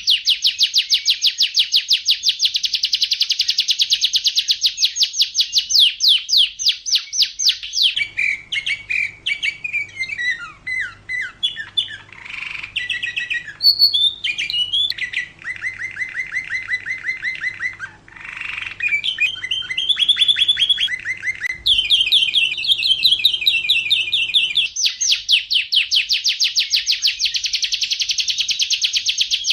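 Domestic canary singing: very fast, high rolling trills, breaking about eight seconds in into varied phrases of chirps and slower trills with a faint steady hum behind them, then returning to the fast trills near the end.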